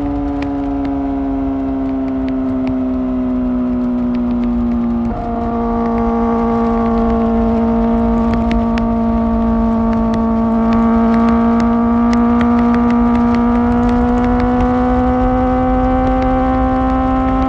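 Kawasaki ZX-4R's inline-four with an Akrapovic exhaust, held at high revs while riding, its high-pitched note easing slightly. About five seconds in there is a brief break as it changes gear, and the pitch slowly climbs again over the last few seconds. Wind and road rumble run underneath.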